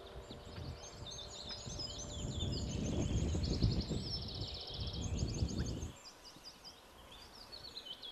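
Several small birds chirping and trilling, with quick runs of repeated notes, over a low rumble that cuts off abruptly about six seconds in.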